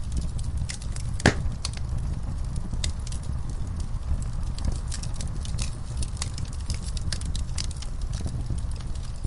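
Wood fire burning in a fireplace: a steady low rumble of flames with frequent sharp crackles and pops, the loudest snap about a second in.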